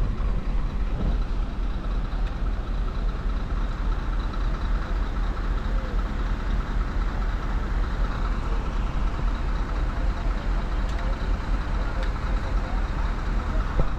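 Heavy diesel machinery running steadily: a constant low engine rumble with no marked revving or knocks.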